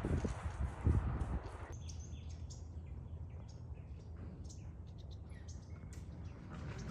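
A small songbird giving short, high chirps repeated irregularly, after a few low thuds in the first second or so.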